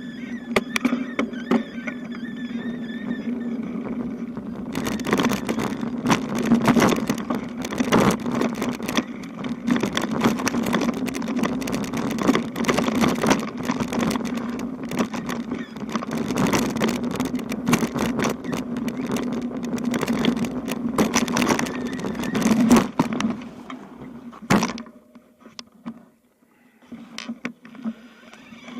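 Bicycle riding over a rough road, with a steady tyre hum under dense irregular rattling of the bike and its load. The rattling stops suddenly about 24 seconds in.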